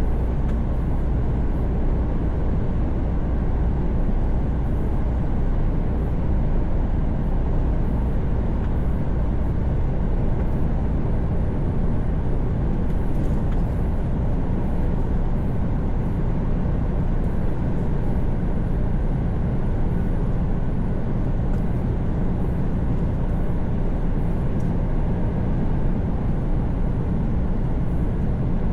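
Mercedes-Benz Actros truck cruising on the motorway, heard from the cab: a steady low engine drone mixed with tyre and road noise, unchanging throughout.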